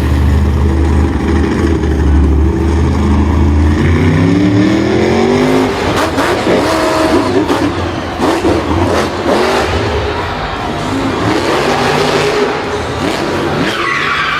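A vehicle engine running steadily, then revving up with a rising pitch about four seconds in. After that comes a busier stretch of engine sound mixed with clatter and knocks.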